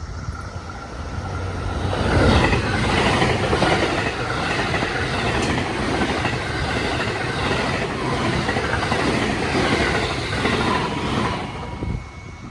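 JR Kobe Line electric train passing through the station, swelling about two seconds in and dying away near the end.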